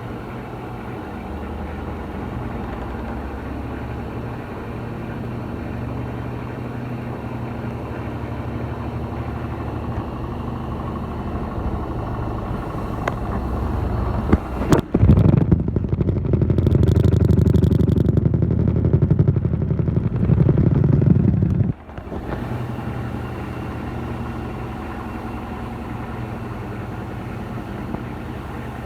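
Electrolux LTC15 top-loading washing machine in its spin cycle with a load of coloured clothes, a steady mechanical hum. About halfway through, a louder, heavier rumble takes over for about seven seconds, then cuts off suddenly and the steady hum returns.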